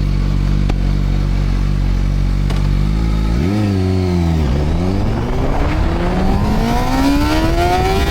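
CFMOTO 500SR inline-four motorcycle engine running steadily at low revs. About three and a half seconds in, the revs jump and dip as the bike pulls away, then the engine note climbs steadily as it accelerates hard in first gear toward the rev limiter's fuel cut.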